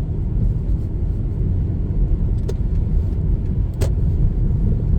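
Steady low rumble of a car's engine and tyres heard from inside the cabin while driving, with two short clicks about two and a half and four seconds in.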